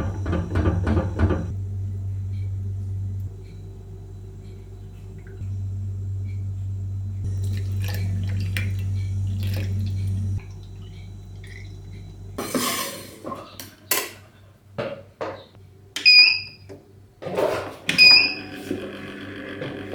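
A steady low hum that steps up and down in level for about twelve seconds, then knocks and clinks of dishes and utensils, two of them sharp and ringing near the end.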